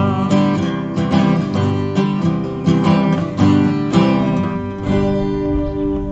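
Acoustic guitar strumming chords to close out a song, the strums thinning out near the end.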